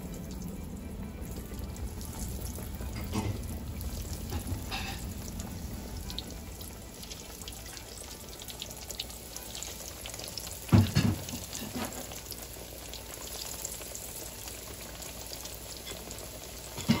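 Breaded eggplant slices frying in hot oil in a skillet: a steady sizzle with scattered crackles as more slices are laid into the pan. There is one louder knock a little past the middle.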